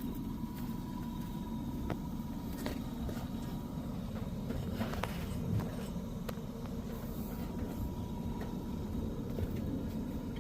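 Steady low background rumble with a few faint clicks and knocks.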